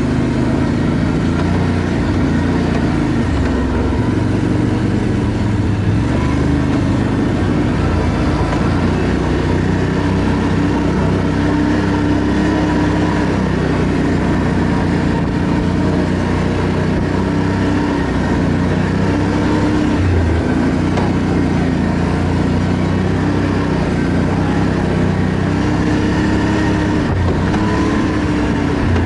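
ATV engine running as it is ridden, its pitch stepping up and down with the throttle.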